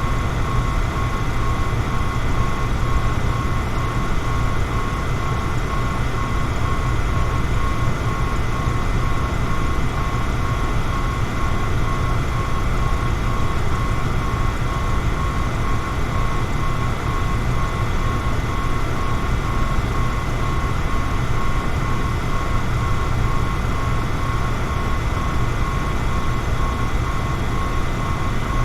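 Electric fan running steadily: a constant whooshing noise, heaviest in the low range, with a faint steady hum-like tone above it.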